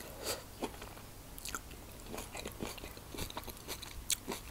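Close-miked chewing of a mouthful of quinoa salad with cucumber, cherry tomato and corn: soft, wet crunches and mouth clicks scattered through, a little sharper near the end.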